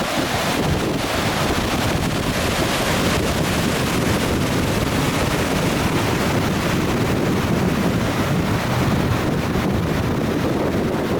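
Steady rushing of Yudaki Falls, the outflow of Lake Yunoko pouring down the falls, a dense unbroken noise heaviest in the low range.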